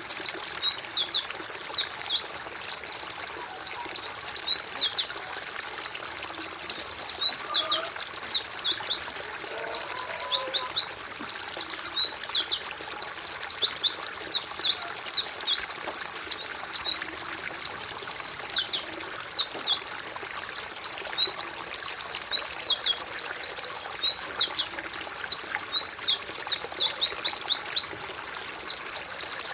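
White-eyes (pleci) chirping continuously, many quick high descending chirps overlapping in a dense, unbroken chatter.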